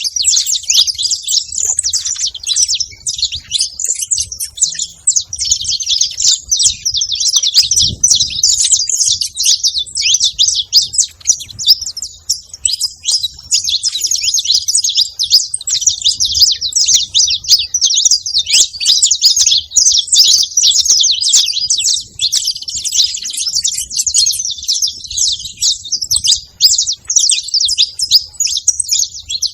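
Saffron finch singing: a long, unbroken run of rapid, high chirps and trills.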